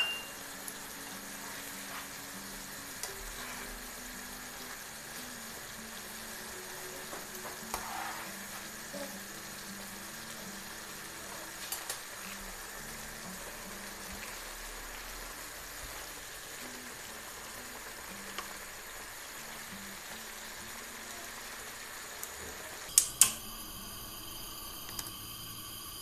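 Green peppers and tomatoes sizzling steadily in a frying pan, with a few faint taps and scrapes as a spatula stirs them. About 23 seconds in, two sharp loud knocks.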